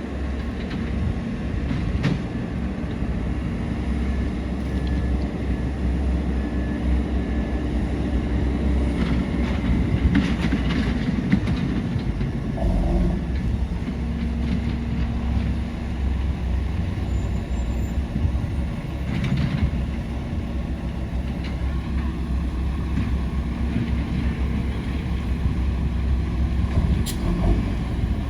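Heavy loaded trucks running on the road: a steady, loud, low engine and tyre rumble that swells slightly around the middle, with a few brief clanks.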